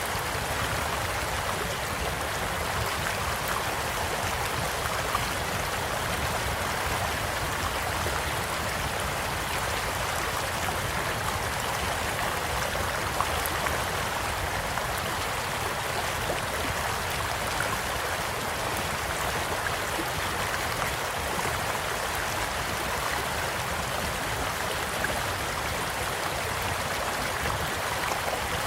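Stream flowing steadily, with a few faint pops and crackles from a campfire.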